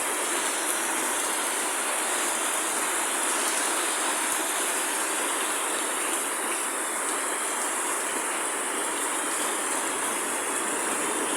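Rain pouring down, a steady even hiss.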